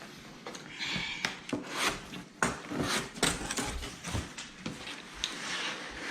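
A cardboard and plastic package being handled and opened: rustling and crinkling with many scattered clicks and knocks.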